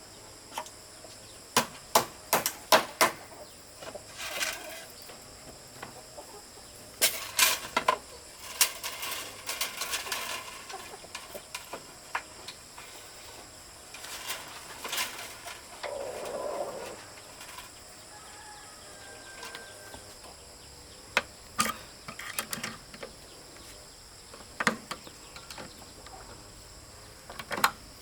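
Chickens clucking, mixed with irregular clusters of sharp knocks or taps.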